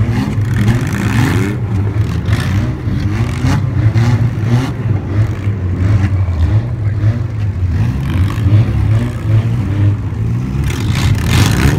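Several demolition-derby cars' engines running and revving unevenly together, their pitches rising and falling, with a few short clattering knocks.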